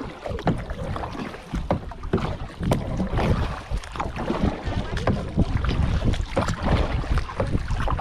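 Kayak paddles dipping and splashing in the water in an irregular run of short splashes, with wind rumbling on the microphone.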